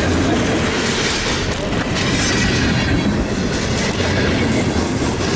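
Train passing close by at speed: a loud, steady rush of wheels on rail and rail cars going by.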